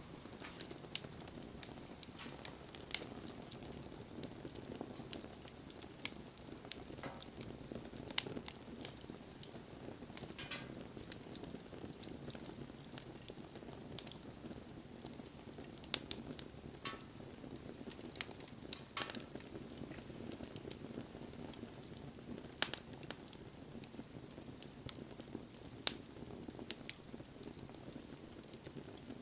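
Wood bonfire burning: a steady low hiss of flames with irregular sharp crackles and pops from the burning wood, a handful of them much louder than the rest.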